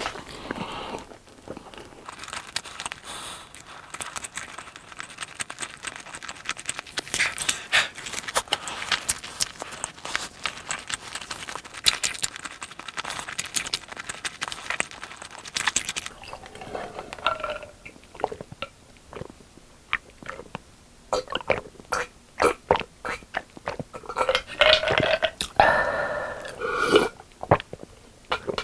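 Close-miked chewing of crispy boneless fried chicken: dense crunching for about the first half, then sparser, wetter chewing with short mouth noises.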